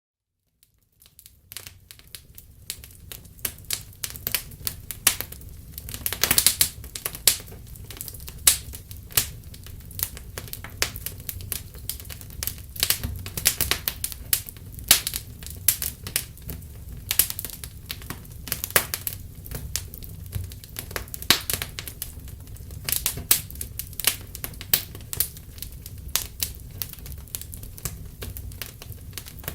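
Wood fire in a fireplace crackling, with irregular sharp pops over a steady low rumble, fading in from silence over the first couple of seconds.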